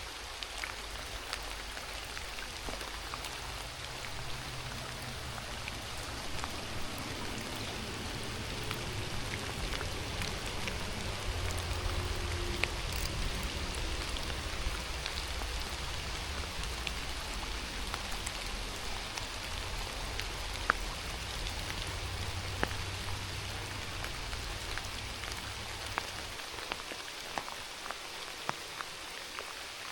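Steady rain falling, with scattered sharp ticks of drops striking close by. A low steady hum runs underneath for most of the stretch, fading out near the end.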